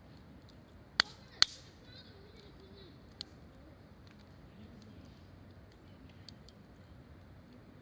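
Wood campfire crackling: two loud sharp pops close together about a second in, another snap a couple of seconds later, and scattered faint ticks.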